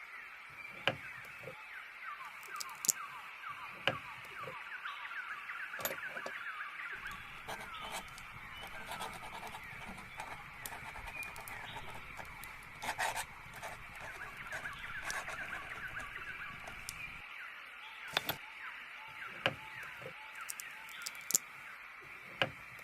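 Many small birds chirping and twittering in a steady, busy chorus, with a few sharp taps heard now and then.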